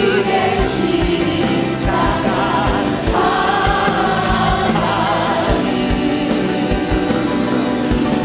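Choir and congregation singing a gospel hymn with band accompaniment and a steady drum beat.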